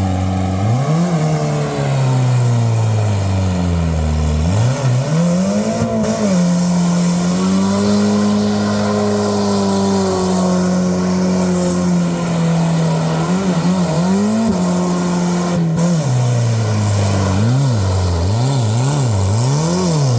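Suzuki Escudo engine being revved hard, its pitch rising and falling over and over, held at high revs for a few seconds in the middle, then a run of quick rev blips near the end.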